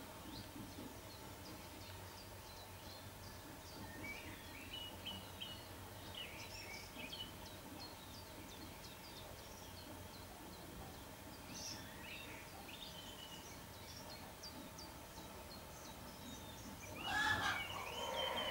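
Small birds chirping and twittering on and off, with one louder, lower bird call lasting about a second and a half near the end.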